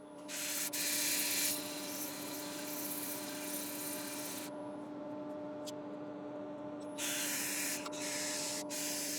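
Wood lathe running with a steady hum while sandpaper is pressed against the spinning wooden bowl, hissing in two spells: a long one from the start and a shorter one near the end.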